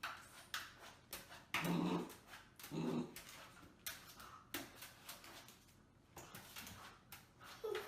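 A dog making short vocal sounds, two brief ones about two and three seconds in and a smaller one near the end, among scattered clicks and knocks.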